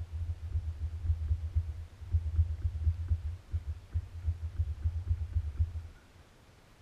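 Enduro motorcycle engine idling, heard through the camera as a muffled low throbbing that cuts off suddenly about six seconds in, as if the engine is switched off.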